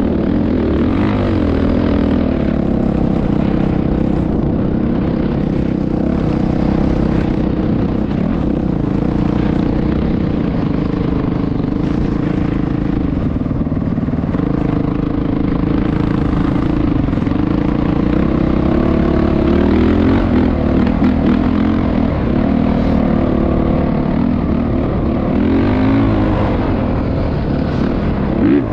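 Motocross motorcycle engine running continuously, its pitch rising and falling a little from time to time as the revs change.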